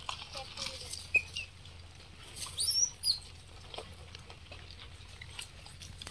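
Scattered light taps and rustles on dry ground, with a sharp click about a second in. A short, high bird chirp about two and a half seconds in is the loudest sound.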